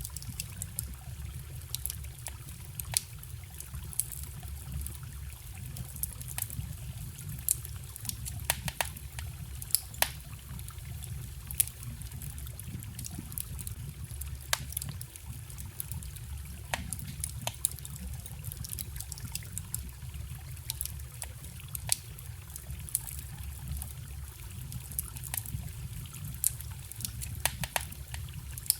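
Wood fire crackling with irregular sharp pops and snaps over the steady trickle of a forest stream.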